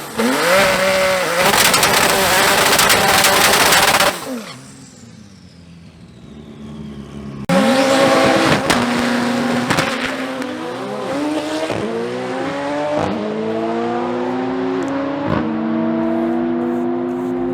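Car engine at full throttle, accelerating hard in a drag run; the sound cuts off abruptly about four seconds in. After a quieter few seconds a second hard pull starts, its engine pitch climbing and then dropping at each of several upshifts.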